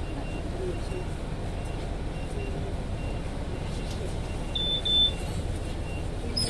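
Steady low rumble of a running vehicle, with two short high electronic beeps about two-thirds of the way in.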